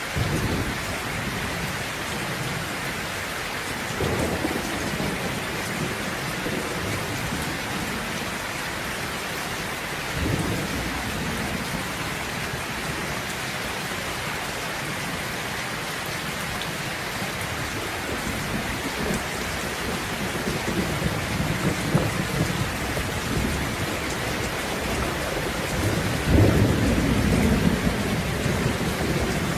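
Steady heavy rain with rolls of thunder: short low rumbles at the start, about 4 and 10 seconds in, a longer stretch of rumbling in the second half, and the loudest, longest roll starting about 26 seconds in.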